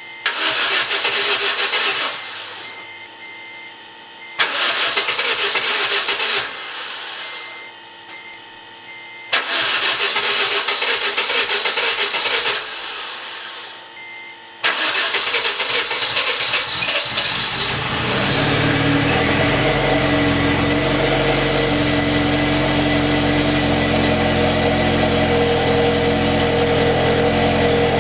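Honda R18 four-cylinder engine being cranked by the starter three times in short bursts without catching, then firing on the next try about halfway through and running steadily at idle. This is the first start after a fresh set of rod bearings.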